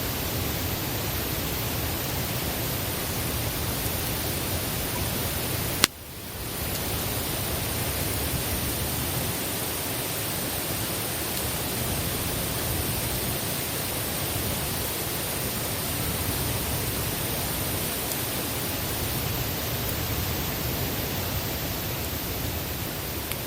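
Steady, even hiss of a campfire burning outdoors. About six seconds in there is a single sharp click and a momentary drop in the sound, where one clip is spliced to the next.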